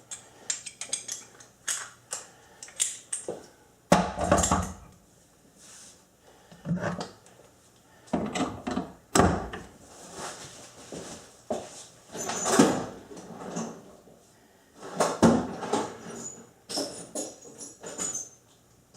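Irregular knocks and clatter of tools and parts being handled at a metal lathe, some light and sharp, a few heavier, with short pauses between them.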